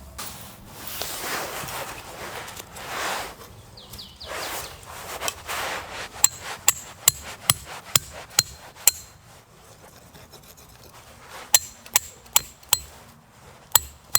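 Rustling and scraping for a few seconds, then two runs of sharp, ringing taps like a hammer striking metal, about two to three a second.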